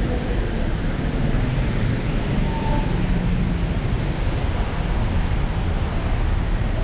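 Steady noise of city street traffic, with wind rumbling on the microphone.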